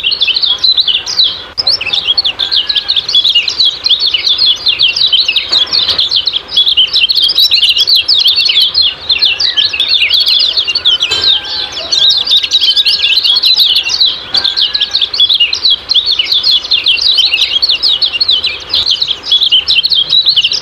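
Kecial kuning giving a dense, unbroken stream of rapid, high 'ciak-ciak' chirps: a lively, 'gacor' calling used as a master recording to draw other birds into song.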